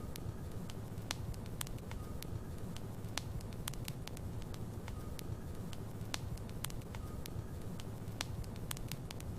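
Logs burning in a fireplace: a steady low rumble of the flames with frequent sharp crackles and pops at irregular intervals.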